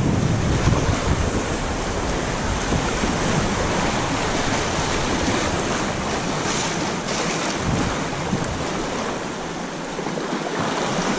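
Steady rush of river water through a rapid, with wind noise on the action-camera microphone.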